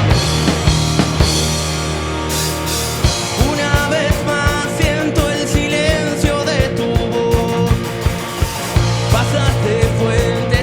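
Live rock band playing a song with electric guitars, bass and drum kit, and a vocal or lead melody coming in a few seconds in.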